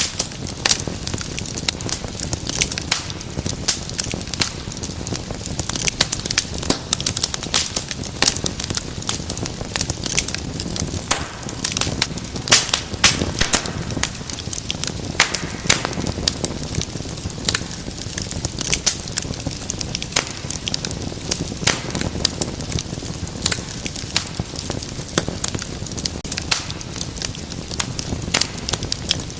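Wood fire crackling in a fireplace: frequent sharp irregular pops and snaps over a steady low rumble and hiss of burning flames.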